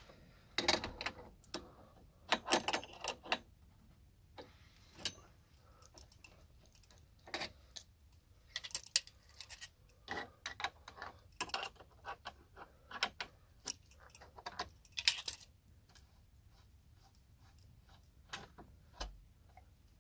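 Small metal parts and hand tools clinking and tapping in irregular clicks and short clatters, thinning out near the end.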